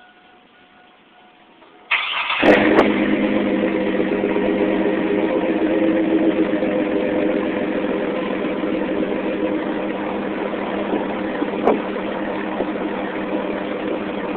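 Chevy S10's 4.3-litre V6 with a Flowmaster Delta 40 muffler and pre-cats deleted, cranked briefly about two seconds in, catching and then idling steadily through the exhaust.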